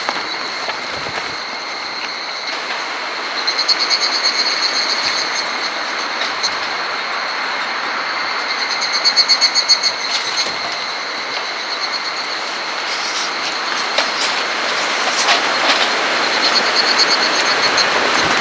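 Strong wind rushing steadily, with a high, rapidly pulsing trill rising out of it three times.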